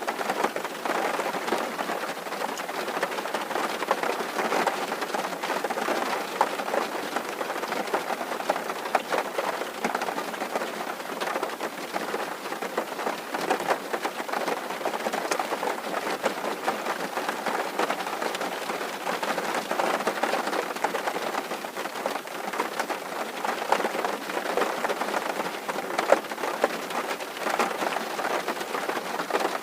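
Steady rain drumming on a tin roof: a dense patter of countless small drop impacts on sheet metal, with an occasional louder drop.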